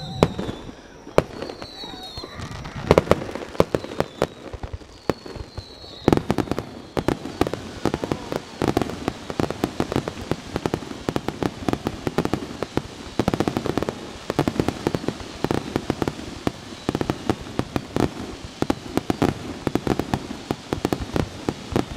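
Fireworks display: aerial shells bursting with sharp bangs, spaced out at first, then about six seconds in a rapid, dense barrage of reports and crackling that keeps going.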